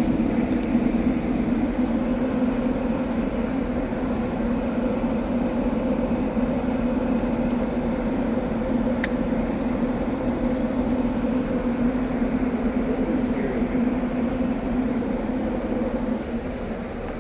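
Diesel engine of heavy logging equipment running at a steady speed, with a single sharp click about nine seconds in.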